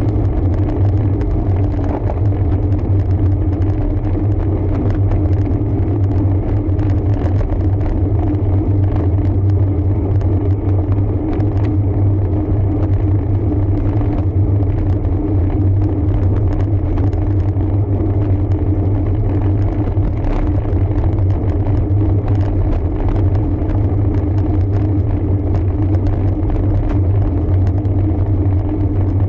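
Steady low rumble of wind and road noise on a camera riding on a road bike, without a break.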